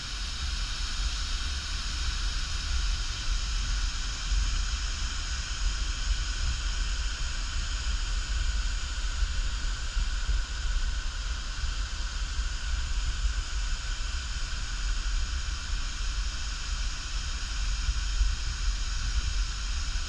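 Steady rushing noise of flowing water, with a heavy low rumble under a lighter hiss.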